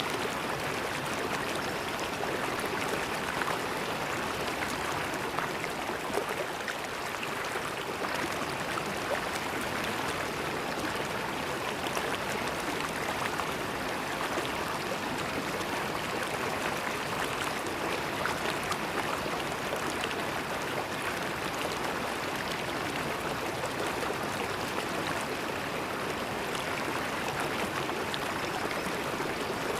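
River water flowing and babbling over stones, a steady rushing with fine splashing and gurgling detail.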